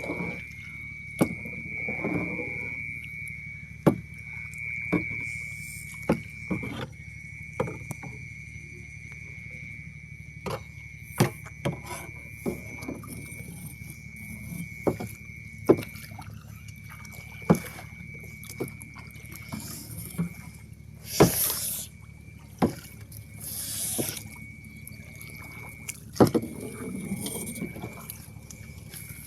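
One-handed paddling in a canoe: the paddle knocks against the hull again and again, with a few short splashes of water. A steady high whine runs under it.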